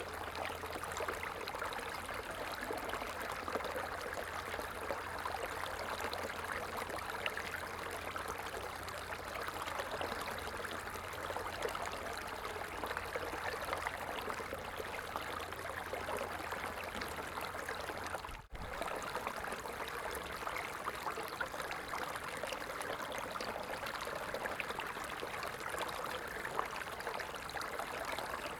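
A stream of water flowing steadily, an even rushing and trickling, with a momentary dip in level about two-thirds of the way in.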